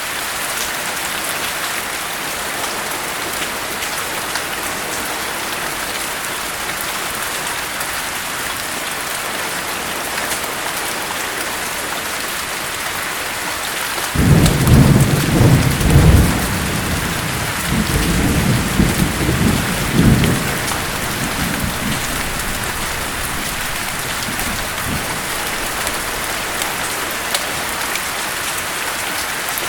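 Steady rain falling throughout. About halfway through a thunder rumble starts suddenly, rolls in several swells for about six seconds, then dies away under the rain.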